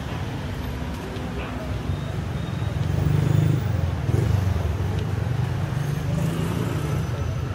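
Road traffic: motor vehicle engines rumbling past, swelling louder about three seconds in.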